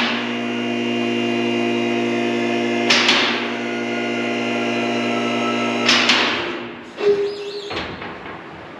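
Electric-hydraulic car lift raising: the pump motor hums steadily while the safety locks clack about every three seconds. The motor stops about six seconds in and is followed by a thud.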